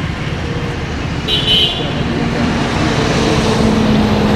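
Steady traffic-like background noise, with a brief high-pitched toot about a second and a half in.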